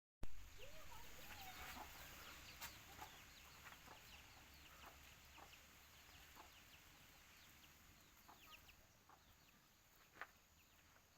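Poultry calling faintly: many short, high, falling chirps scattered throughout, with a louder call about ten seconds in.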